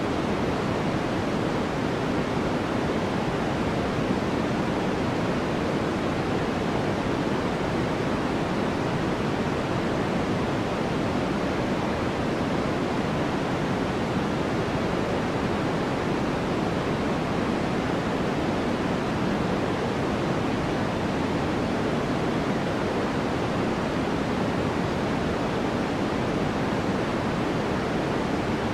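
Steady white-noise track: an even, unchanging rush of noise weighted toward the lower, darker end, with no separate events.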